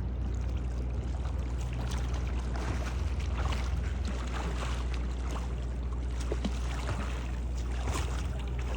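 Kayak paddle strokes splashing and sloshing in the water, irregular, over a steady low rumble.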